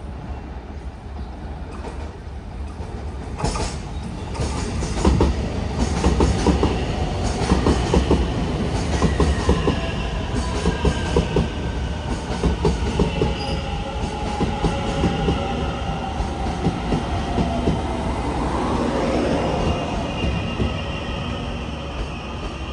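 Train running past on the rails, its wheels clattering over rail joints and switches, loudest a few seconds in. Through the second half several whining tones slide slowly down in pitch over a steady rumble.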